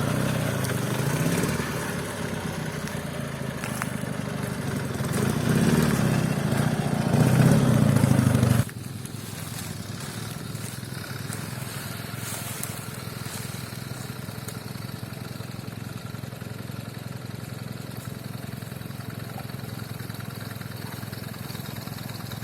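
Soviet boxer-twin motorcycle engine running under way, its pitch rising and falling with the throttle as it gets louder. About nine seconds in the sound drops off suddenly to a quieter, steady engine note.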